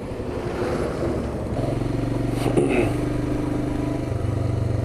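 Royal Enfield Himalayan's single-cylinder engine running while riding, its pitch shifting about one and a half seconds in and again near the end.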